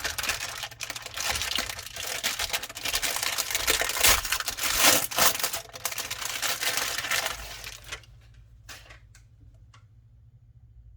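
Packaging being crinkled and torn open during a hard drive unboxing, continuous for about eight seconds, then a few brief rustles and clicks.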